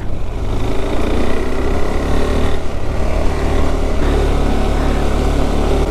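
KTM 390 Adventure's single-cylinder engine running steadily while the motorcycle rides along.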